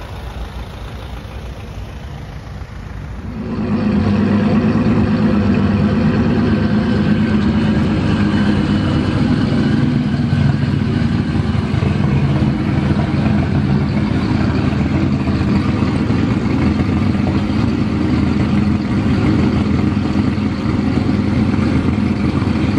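Nissan S13 drift car with a 2JZ straight-six idling steadily; heard faint for the first three seconds or so, then close and loud.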